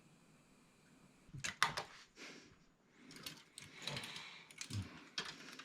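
Hard objects being handled: a run of clicks and knocks with scraping, starting about a second and a half in.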